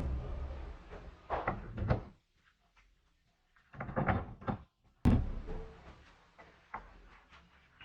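Handling clunks and knocks of hard objects in three short clusters, with the sharpest knock about five seconds in.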